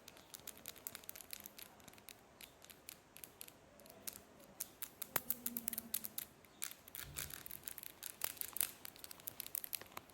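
A sponge being worked by hand close to the microphone, giving many quick, crisp crackles and clicks that thin out in the middle and pick up again near the end.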